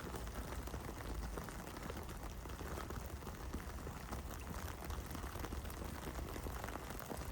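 Heavy rain falling steadily, a dense patter of drops over a low rumble.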